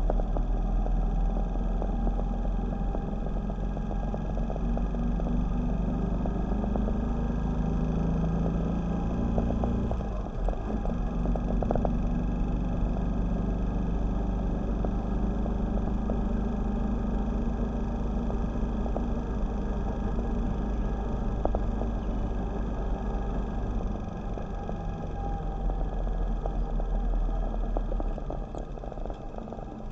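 Motorcycle engine running steadily under way, with a low rumble of road and wind noise; the engine note rises slightly, dips briefly about a third of the way in, and eases off near the end as the bike slows.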